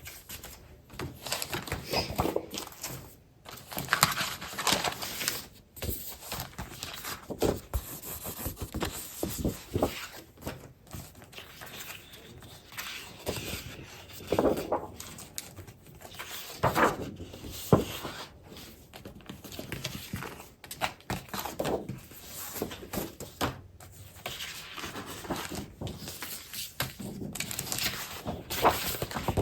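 Scrapbook paper and supply packaging being handled and sorted by hand: irregular rustling, crinkling and shuffling of sheets, with light taps and clicks.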